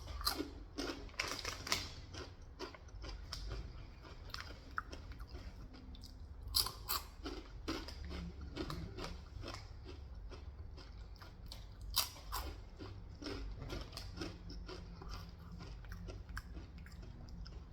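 Close-miked chewing and crunching of Takis Ranch rolled tortilla chips: a steady run of small crisp crunches, with two louder bites about a third and two-thirds of the way through.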